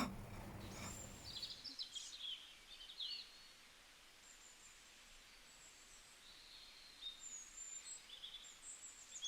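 A brief knock at the very start, then faint bird chirps and short whistled calls, scattered through an otherwise near-quiet background.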